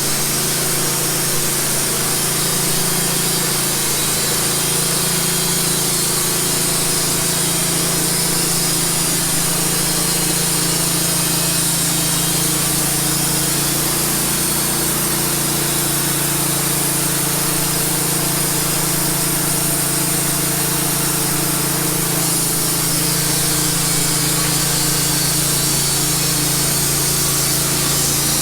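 Wood-Mizer LT15 band sawmill running steadily, its engine humming under the hiss of the band blade cutting through a cedar log.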